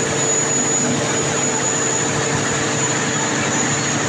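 Engine running steadily at a constant speed, with a thin, steady high-pitched whine above the engine noise.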